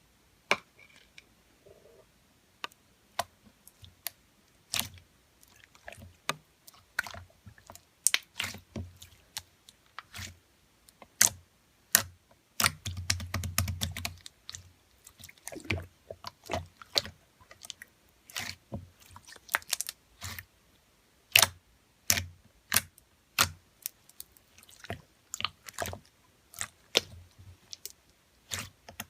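Clear slime being squeezed and pressed by hand, giving irregular sharp clicks and pops, with a denser stretch of squishing about halfway through.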